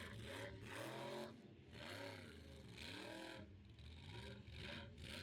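A monster truck engine, faint, revving up and falling back again and again during a freestyle run.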